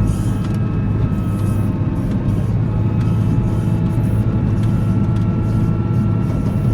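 Volvo L70C wheel loader's diesel engine running steadily under load, with a faint steady high whine over the engine note.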